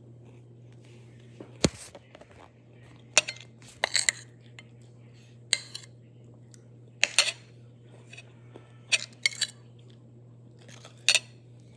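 Cutlery clinking and scraping against a plate in about eight sharp, separate strokes, while working at melted banana-candy residue stuck to the plate. A faint steady low hum sits underneath.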